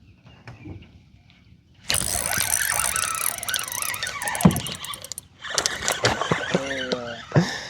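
Fishing reel drag buzzing in two long runs as a hooked fish pulls line off the spool.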